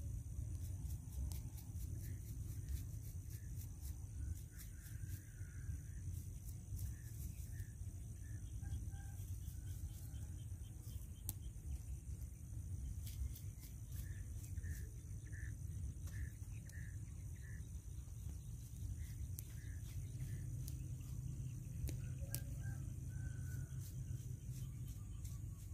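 Short bird calls repeated in runs of several, over a steady high hiss and a low wind rumble on the microphone.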